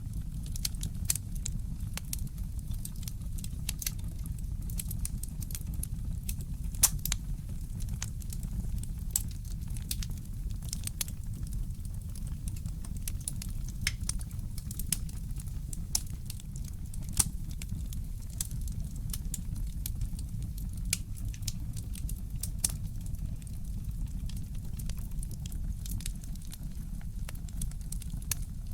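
Wood fire crackling in a fireplace, with irregular sharp pops and snaps over a steady low rumble. Two louder pops stand out, about seven seconds and seventeen seconds in.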